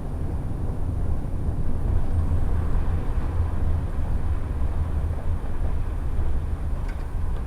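Steady low rumble of a shuttle bus heard from inside the cabin, engine and running noise without a break.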